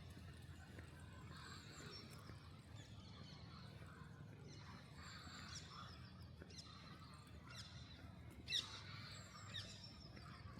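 Small birds chirping in short, high calls over a faint, steady low city hum, with one louder call about eight and a half seconds in.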